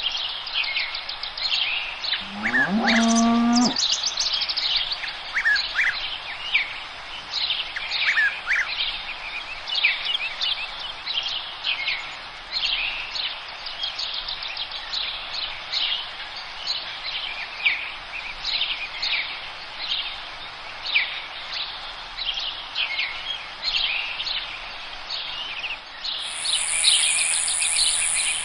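Dense chorus of forest songbirds chirping and trilling. About two seconds in, one low, drawn-out animal call lasting about a second and a half stands out. Near the end, a steady high buzz sets in.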